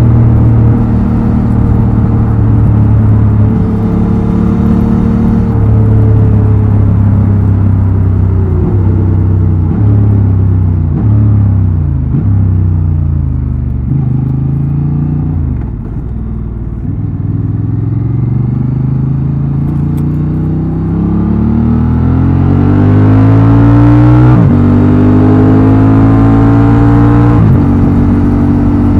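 Honda Transalp XL750's 755 cc parallel-twin engine heard through its exhaust under way. It runs steadily at first, then slows, the revs falling with several quick jumps back up as it changes down. Then it pulls away with the revs climbing and changes up twice near the end.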